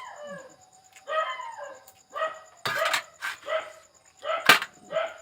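A dog barking repeatedly, about seven short barks. Two sharp knocks come in between, the louder one a little after four seconds.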